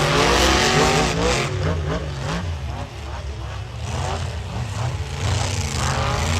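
Monster truck engines running and revving, rising and falling in pitch, with a dip about halfway through before they build again.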